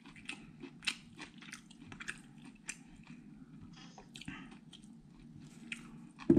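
A person chewing and biting food close to the microphone: irregular soft smacks and crunches over a low steady hum.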